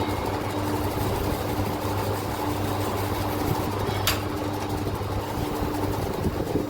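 Steady mechanical hum of a running motor, with a single sharp click about four seconds in.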